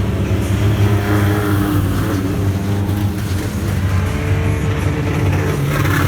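Pro-4 race cars running at speed around a short oval track, engines revving as the pack passes by.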